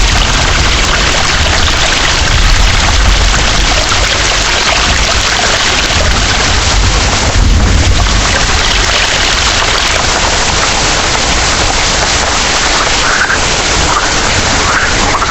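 Heavy rain pouring steadily, with a low rumble of thunder underneath that swells a couple of times.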